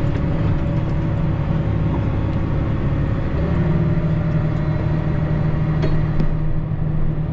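Tractor engine running steadily while it handles a round cotton bale; its note shifts slightly about three and a half seconds in.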